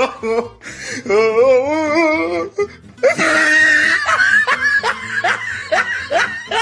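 Laughter over background music: a wavering drawn-out laugh, then from about three seconds in a quick run of short repeated 'ha' sounds.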